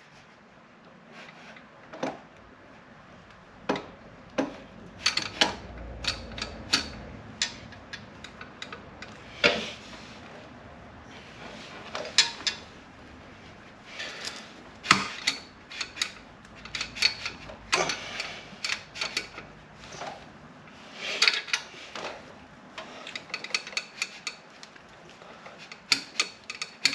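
Irregular metallic clinks and knocks of a motorcycle exhaust and its mounting hardware being handled and fitted onto the bike.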